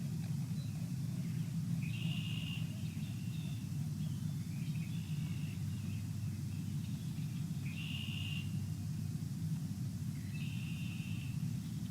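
Small birds calling, four short chirping phrases a few seconds apart, over a steady low rumble.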